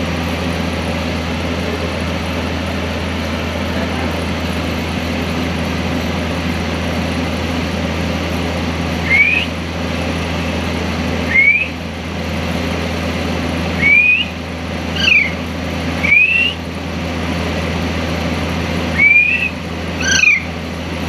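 Steady hum of a running air cooler, with a pet parrot giving seven short whistled calls, mostly rising, starting about nine seconds in and repeating every second or two.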